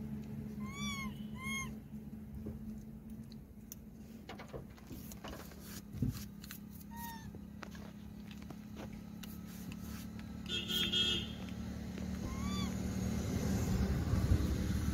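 Steady low hum of an idling car heard from inside the cabin, with a few short chirping calls, light taps and one thump against the windscreen. A brief horn-like tone comes about ten seconds in, and a motorcycle engine grows louder near the end.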